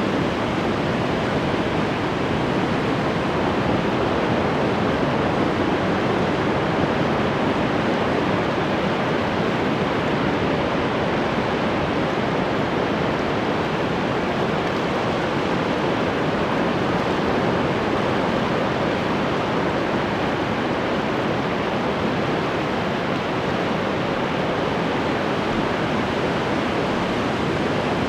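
Ocean waves breaking and washing on the shore in a continuous, steady rush of surf, with no distinct individual crashes standing out.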